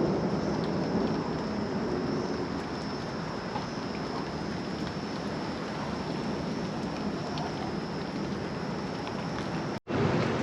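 Heavy rain falling steadily in a thunderstorm, a dense even hiss, with a low thunder rumble fading out in the first second or so. The sound cuts out for a moment near the end.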